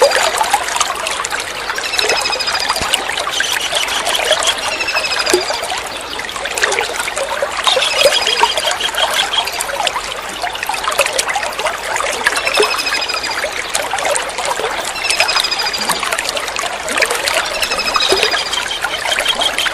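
Kingfisher (tengkek udang) calling in short, high, rapid trills, a burst every couple of seconds, over steady trickling water.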